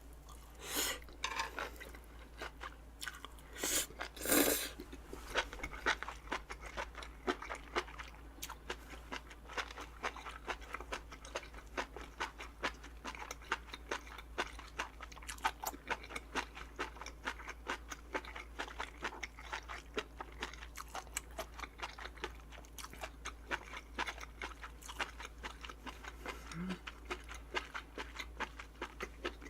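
Close-miked chewing of a crisp vegetable-leaf wrap with boiled pork, with many small wet crunches. The crunches are loudest in the first few seconds, then go on as steady smaller crunching.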